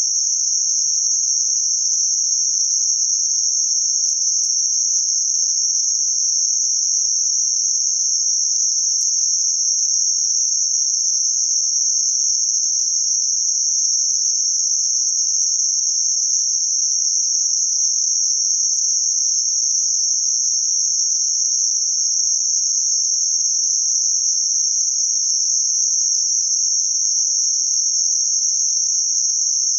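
Synthetic noise band centred around 6051 Hz: a steady, unchanging high-pitched hiss with nothing in the low or middle range.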